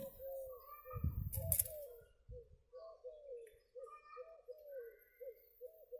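A bird calling in a steady run of short, arched, mid-pitched notes, two to three a second. About a second in there are low handling thumps on the grass and a brief rustling click, the loudest moment.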